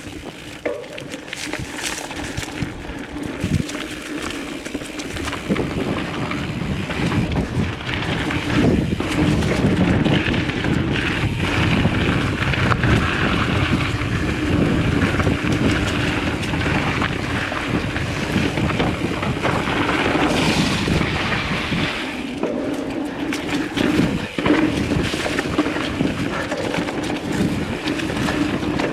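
Wind buffeting the microphone of a camera on a moving mountain bike ridden along a dirt trail, with tyre rumble and many short knocks and rattles from the bike over rough ground, getting louder over the first several seconds as speed builds.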